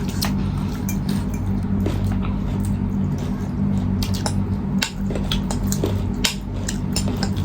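Eating sounds during a meal: scattered sharp clicks of cutlery and dishes and wet chewing, over a steady low electrical hum.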